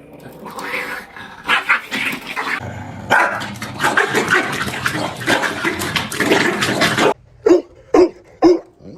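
A dense stretch of noise and clicks that stops suddenly about seven seconds in. Then a dog barks four times, about half a second apart.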